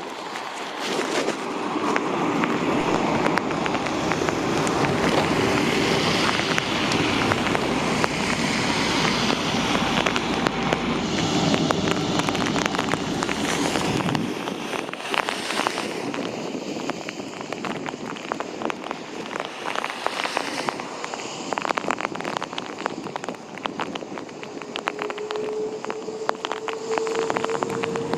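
Hurricane wind gusting on the microphone with rain, strongest in the first half; from about halfway, raindrops crackle and tap in quick irregular clicks. Near the end a faint whine slowly rises in pitch.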